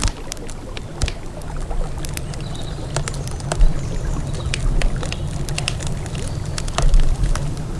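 Wood campfire crackling, with sharp pops and snaps coming irregularly several times a second over a steady low rumble.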